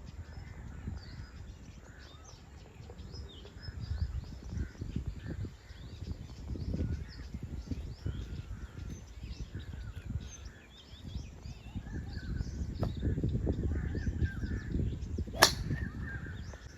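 Many birds chirping and calling over a low, fluctuating rumble. About fifteen seconds in there is a single sharp crack of a golf club striking a ball.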